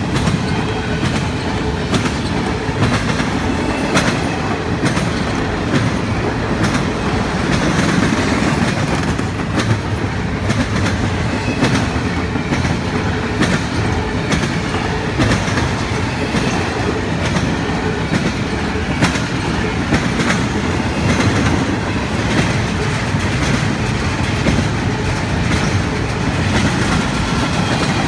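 Empty double-stack intermodal well cars of a freight train rolling steadily past: a continuous rumble of steel wheels on rail, with frequent sharp clicks and clanks as the wheels cross rail joints.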